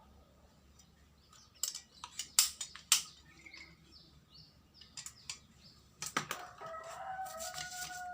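Several sharp clicks and knocks, the loudest two to three seconds in, then a rooster crowing in one drawn-out call near the end that dips in pitch as it finishes.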